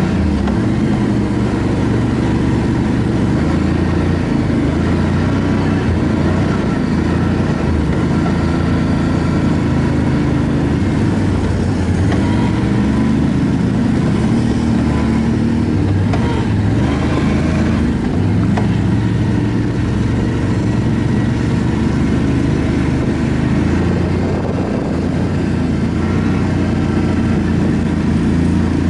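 ATV engine running under way, its pitch shifting as the throttle changes, with steady wind and rumble noise.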